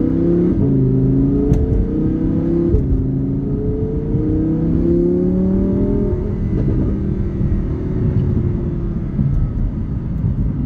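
2017 Audi R8's 5.2-litre V10 accelerating, its note climbing and dropping back at each upshift, three times in the first six seconds, then holding a steadier, slowly falling note.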